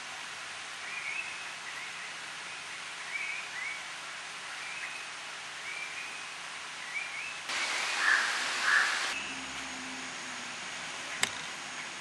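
Birds calling over a steady hiss of forest ambience: short upward-sliding chirps about once a second. After about seven seconds a louder burst of noise carries two stronger calls, and there is a single sharp click near the end.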